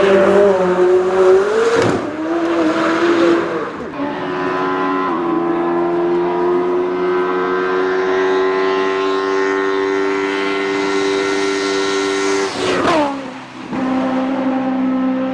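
Racing car engine at full throttle on a hill climb, pitch rising and dipping through gear changes, then held at high revs for several seconds. Near the end the note falls sharply as the driver lifts off, then settles at a lower steady pitch.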